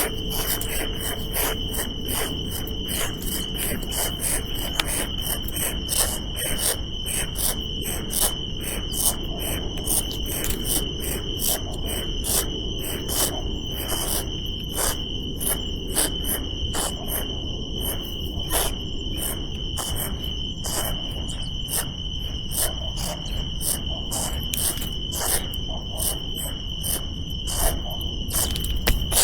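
Insects, most likely crickets, trilling with a steady high-pitched drone, over frequent irregular clicks and rustles.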